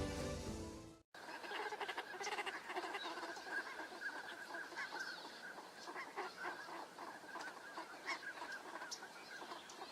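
Background music fades out about a second in, then a flock of geese honks: many short calls overlapping at an uneven pace.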